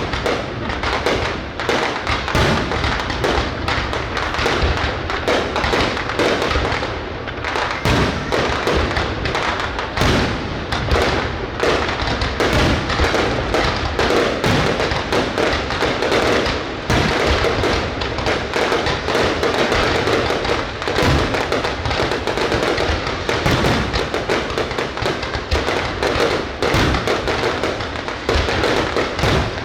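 Fireworks display: a continuous, dense barrage of overlapping firework bursts and crackles, with deeper booms mixed in.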